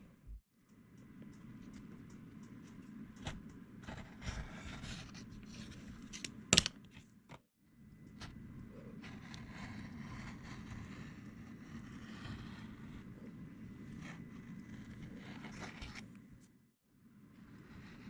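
Scraping and scratching of hand tools working leather, with scattered small clicks and one sharp knock about a third of the way in. The sound drops out briefly a few times.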